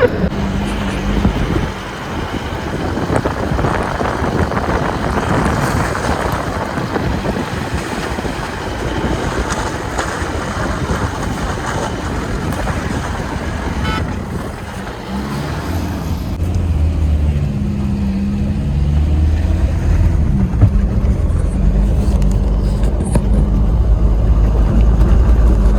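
Force Gurkha 4x4's diesel engine running while the vehicle drives on snow and black ice, with a broad rush of tyre and road noise. From about two-thirds of the way in, a low, steady engine hum comes up and grows louder.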